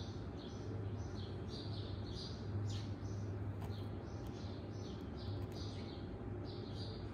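Small birds chirping outside, with short high chirps repeating about two a second, over a steady low hum.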